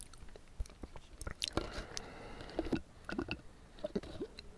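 Close-up mouth sounds of chewing chewy bubble tea tapioca pearls: irregular soft wet clicks and squishes.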